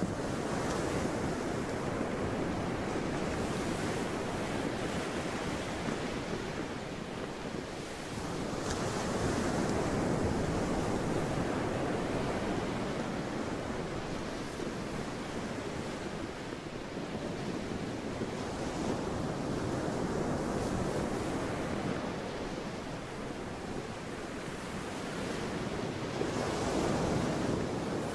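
Sea waves washing in steadily, the sound swelling and easing roughly every eight to ten seconds.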